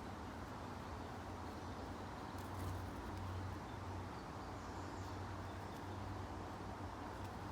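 Steady outdoor background with a constant low hum and rumble, and a few faint, brief bird chirps, a couple of seconds in and again near the middle.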